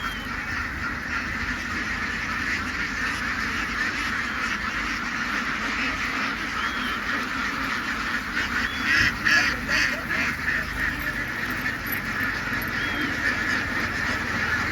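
A large flock of ducks quacking all at once in a dense, unbroken din, rising into a louder cluster of calls about nine seconds in.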